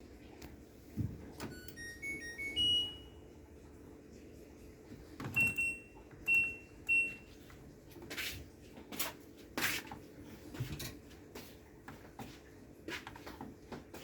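Electronic control panel of an LG washing machine playing a short rising tune that ends on a held note, typical of power-on. Then three identical short button beeps, followed by several sharp knocks and clicks.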